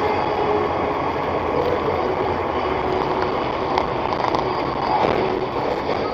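Steady road and engine noise of a moving car, with a few faint ticks about four seconds in.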